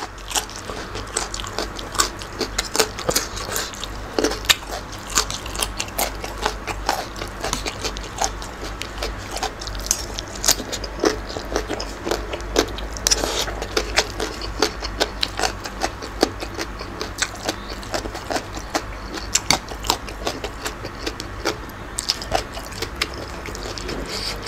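Close-miked chewing of spicy green papaya salad with baby squid, a crunchy mouthful: a dense run of wet crunches, smacks and mouth clicks, several a second, at an uneven rhythm.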